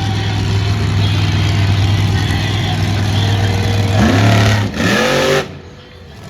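Supercharged, alcohol-burning monster truck engine running steadily, then revving up sharply about four seconds in for a second or so before dropping away.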